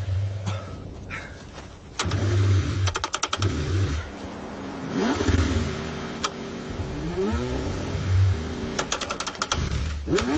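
A car engine being cranked in the cold, struggling to start: pulses of low rumble, two runs of rapid chugging from the starter, and a pitch that rises and falls midway.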